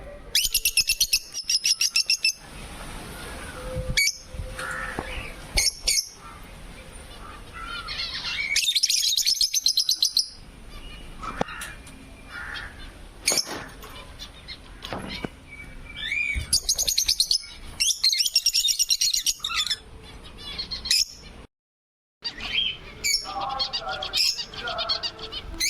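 African lovebirds and finches chirping and squawking together, in loud bursts of rapid, shrill chirps with softer calls in between.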